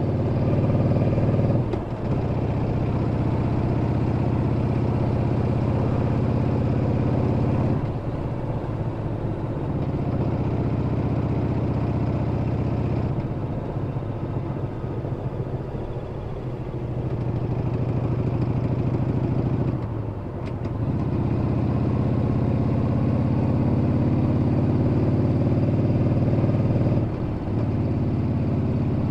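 Yamaha Bolt's air-cooled V-twin engine running as the motorcycle rides along, a steady low note that breaks off and picks up again several times and eases off for a few seconds midway.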